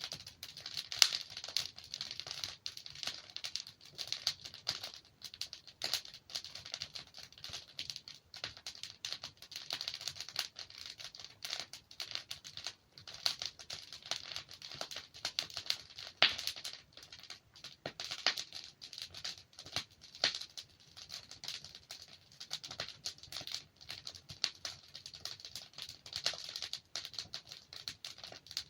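Wood fire crackling steadily: many small irregular snaps and pops from burning logs, with a few louder pops standing out.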